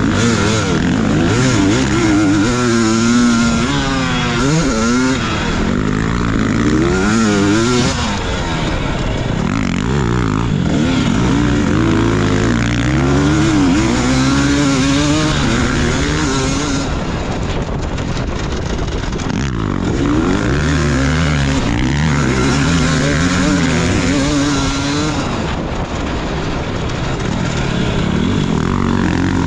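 Motocross bike engine revving hard and easing off over and over, its pitch rising and falling again and again under the throttle.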